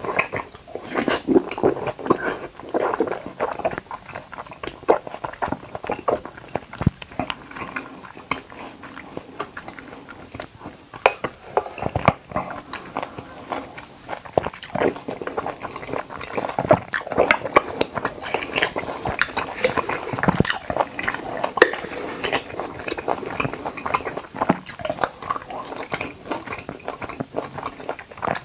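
Close-miked mukbang eating sounds: irregular biting and chewing of soft jelly and watermelon, full of small wet clicks and smacks.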